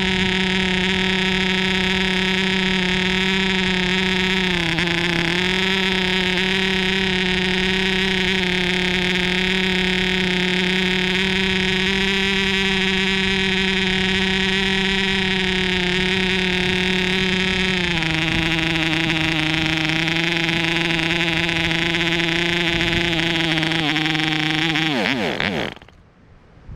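MARZ (MAP3) 2.5 cc model airplane diesel engine running steadily at a high buzzing pitch. The pitch dips briefly about five seconds in and drops a step lower about eighteen seconds in. Near the end the engine winds down quickly and stops.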